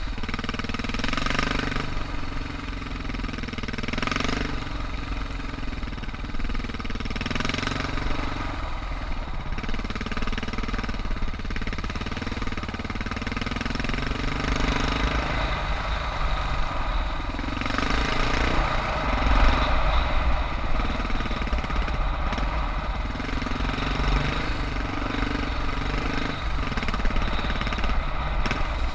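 Suzuki DR650's single-cylinder four-stroke engine thumping at low to moderate revs, its engine speed rising and falling continuously as the bike is ridden.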